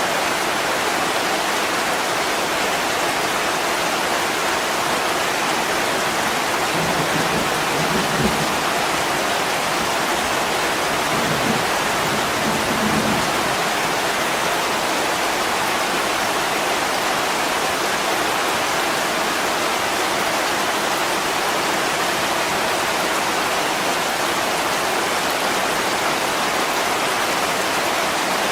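Heavy rain pouring steadily onto window glass, an even rushing hiss, with a soft low thump about eight seconds in.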